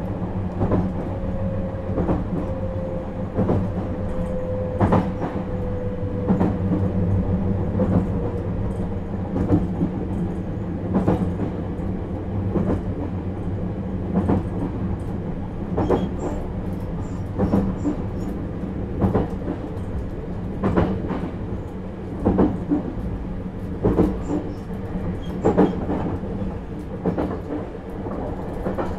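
JR 651-series electric train running at speed, heard from inside a passenger car: a steady low rumble with the wheels clacking over rail joints every second or two. A faint tone slowly falls in pitch during the first several seconds.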